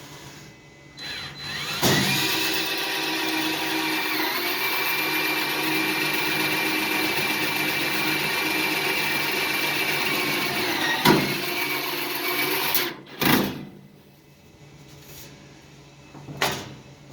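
Power drill running steadily for about ten seconds, its pitch dipping briefly once and sagging as it slows to a stop. A few sharp knocks follow.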